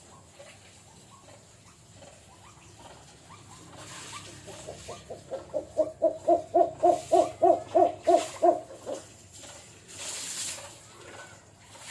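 A jujuk (tatapaian) bird calling: a run of about a dozen low hooting notes, about three a second, that build up and then fade, preceded by a few fainter notes.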